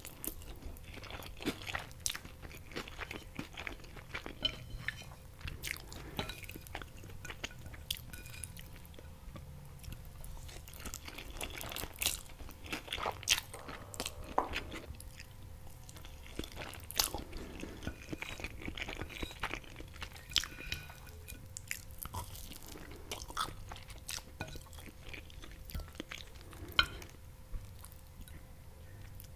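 Close-miked eating sounds of a man chewing green noodles (tallarines verdes): wet chewing and mouth sounds with many irregular sharp clicks.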